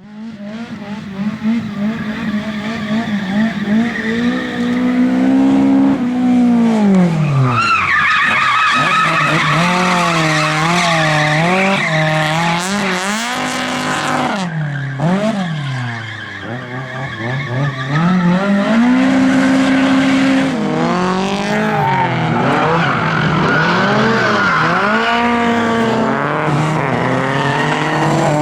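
Lada race car engine revving hard, its note climbing and falling again and again as the throttle is worked, with tyre squeal from skidding.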